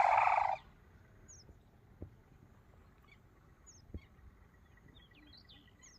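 Sarus crane giving a loud call that cuts off just over half a second in. After it come a few faint, short high chirps from small birds and two soft thumps.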